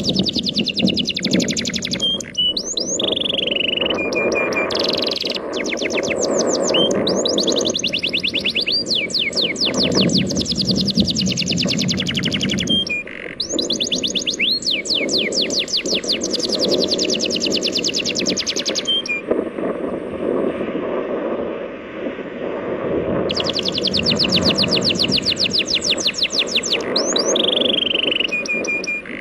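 A songbird singing long, rapid trills of quick falling high notes, with a pause of a few seconds past the middle, over the steady wash of sea waves.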